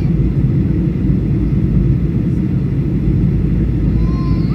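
Steady low rumble of a Boeing 737's engines and airflow, heard inside the passenger cabin during descent.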